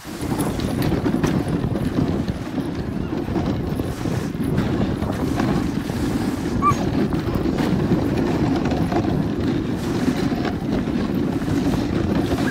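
Dog sled running over snow behind a team of huskies: a steady rushing noise of the runners on the snow and wind on the microphone, with the dogs' rapid footfalls, and a brief high squeak about halfway through.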